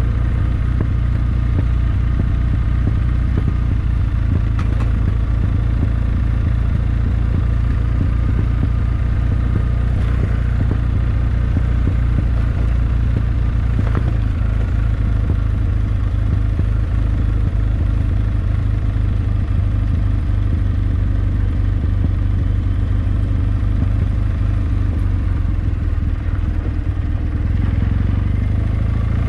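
Kawasaki W650's air-cooled parallel-twin engine running steadily.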